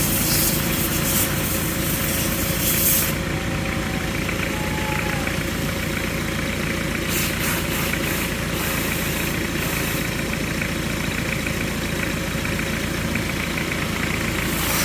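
Mitsubishi Libero engine idling steadily with an even low pulse, running again after its fault has been repaired.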